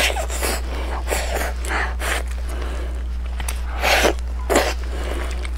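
Close-miked biting and wet chewing of a braised pork knuckle: a run of short noisy smacking sounds, the loudest about four seconds in, over a steady low electrical hum.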